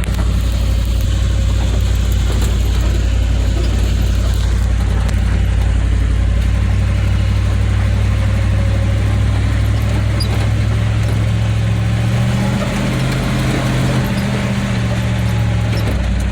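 Vehicle engine running with a steady low drone, the pitch shifting upward about twelve seconds in.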